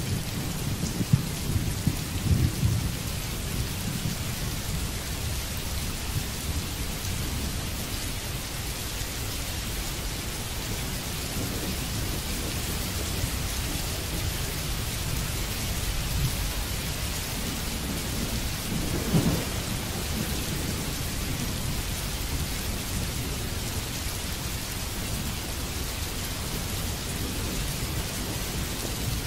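Steady rain falling on a water surface, with a low thunder rumble in the first couple of seconds that dies away and a short rumble about two-thirds of the way through.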